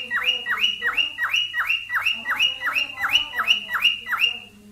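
Cockatiel giving its mating call: a rapid run of repeated whistled notes, about three a second, each rising then dropping sharply, stopping just before the end.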